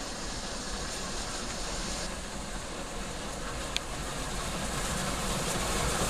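Mainline steam locomotive Clan Line, a Merchant Navy class Pacific, coming on after cresting a summit: a steady rushing noise that grows louder toward the end, with one sharp click about four seconds in.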